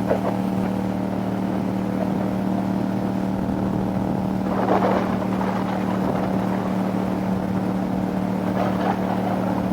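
Motorcycle engine running at a steady cruise under wind rush, heard from the rider's helmet, with a couple of faint brief swells in the wind.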